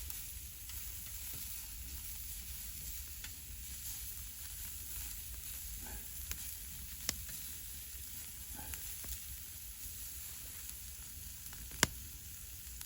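Meat sizzling as it cooks over a campfire, a steady hiss with occasional sharp clicks and one louder crack near the end.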